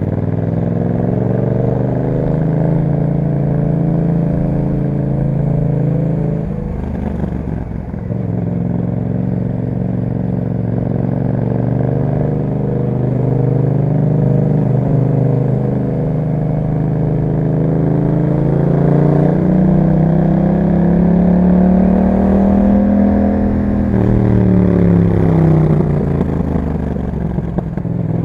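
2021 Yamaha MT-07's 689 cc parallel-twin engine running through an Akrapovic exhaust while riding: the note rises and falls with the throttle, dips sharply about seven seconds in, climbs slowly in the middle and falls away again a few seconds before the end.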